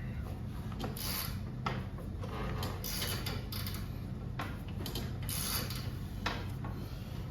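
Hand wrench tightening the set screws on a garage door torsion spring's winding cone: a run of short metal scraping strokes at an uneven pace, about one every half second to a second, over a steady low hum.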